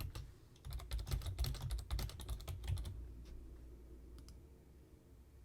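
Typing on a computer keyboard: a quick run of keystrokes lasting about two seconds, then a few single clicks.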